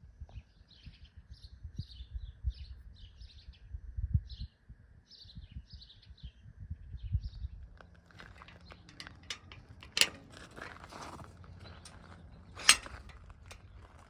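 A small bird chirping in quick short notes, over low rumbling, for the first half. From about halfway, footsteps scuff and click, with two sharper, louder clicks near the end.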